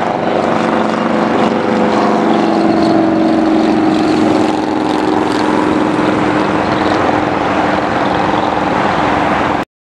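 Aircraft engines running loud and steady, with several held tones that slowly fall in pitch; the sound cuts off suddenly near the end.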